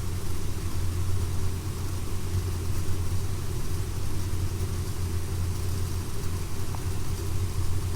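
A steady low motor hum that runs on without change.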